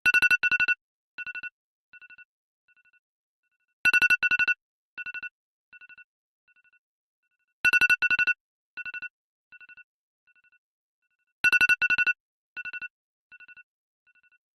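Electronic phone ringtone, a pair of loud trilling beeps at one pitch, rings four times about four seconds apart, each ring followed by fading echoes.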